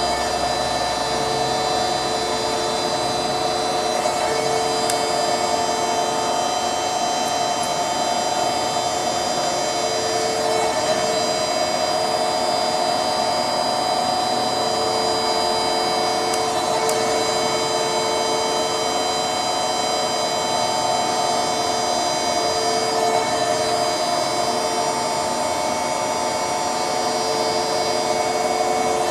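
Danobat RT-2500 horizontal surface grinder running under power, its 20-inch wheel spindle and hydraulics giving a steady whine and hiss, with one tone that swells and fades every few seconds.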